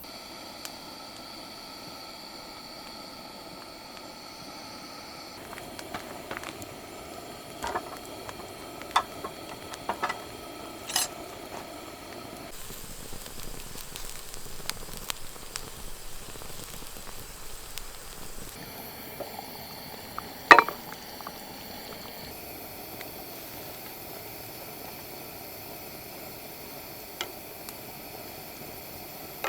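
Food bubbling and sizzling in a pot over a campfire, with scattered sharp clicks and one louder click about twenty seconds in.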